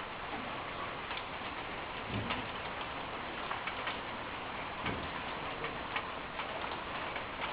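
Rain falling with a steady hiss, and drops ticking irregularly on a hard surface close to the microphone.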